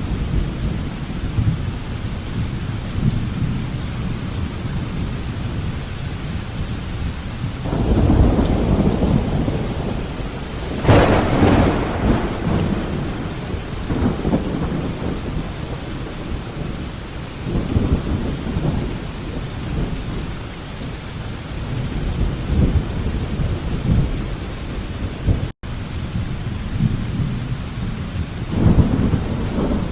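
Thunderstorm: steady rain with thunder rumbling again and again, and one sharper, brighter thunderclap about a third of the way in.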